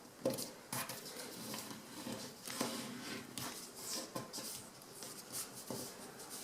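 A sheet of printer paper being folded and creased by hand: irregular short rustles, crinkles and scrapes as the folds are pressed flat.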